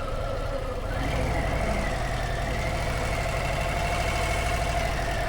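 Large motorcycle engine idling steadily, with a whine that steps up in pitch about a second in and then holds.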